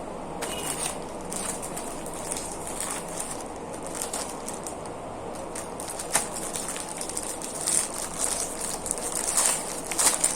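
Someone eating Parle-G glucose biscuits: irregular crunching and crackling, denser and louder in the second half, over a steady background hiss.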